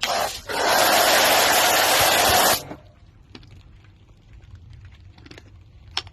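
Car wash high-pressure water spray hissing loudly for about two seconds, then cutting off abruptly; faint clicks follow, with one sharper click near the end.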